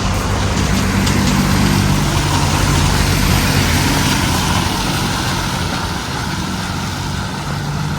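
A motor vehicle's engine running with a steady low hum over street noise, growing louder about a second in and slowly easing off in the second half.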